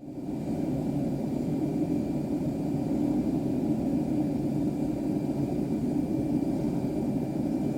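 Steady jet aircraft noise: an even low rumble with faint high whining tones over it.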